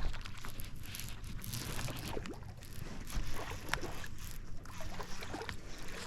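Light water sounds around a kayak: gentle lapping and trickling at the hull, with faint scattered ticks and knocks.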